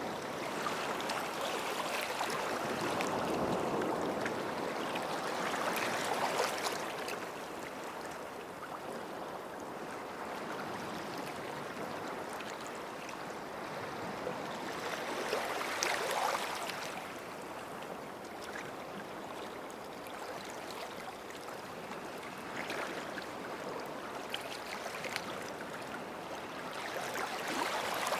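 Small sea waves washing onto a sandy beach, the wash swelling and easing off about every ten to twelve seconds.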